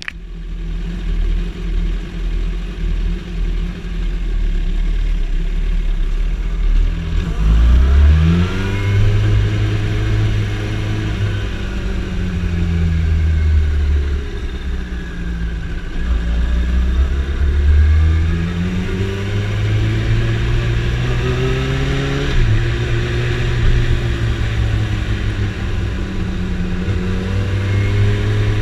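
Yamaha motorcycle engine at low revs for the first several seconds, then accelerating hard from about seven seconds in. The engine note climbs and drops repeatedly as it revs up through the gears and comes off the throttle.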